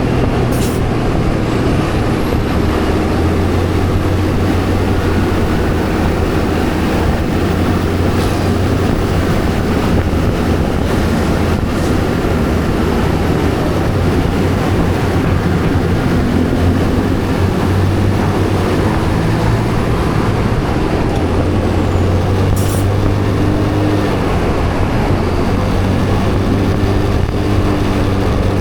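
Motor vehicle engine running steadily on the move, with road and wind noise; two brief clicks, one near the start and one about three quarters of the way through.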